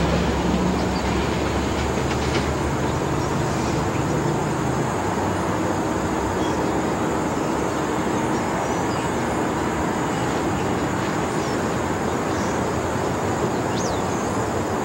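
SEPTA Silverliner IV electric multiple-unit commuter train pulling away down the track, its low rumble fading over the first few seconds and leaving a steady background rush of noise.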